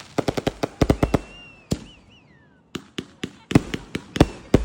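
Firecrackers going off in rapid clusters of sharp cracks, with a pause about two seconds in during which a thin wavering whistle falls in pitch, then more cracks.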